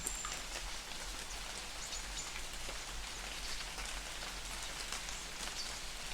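Light rain falling in a forest, a steady patter of many small drops, with a few brief high chirps near the start and about two seconds in.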